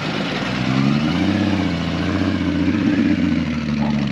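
A vehicle's engine running as it pulls out and drives by, its low note rising about a second in, then holding steady before easing off near the end.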